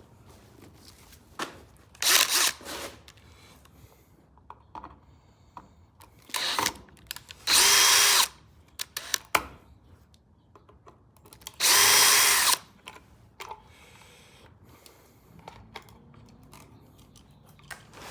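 Power drill run in short bursts to turn the screws of an electrical outlet: two longer runs of under a second each, about seven and a half and twelve seconds in, with a few shorter spurts and small clicks of handling between.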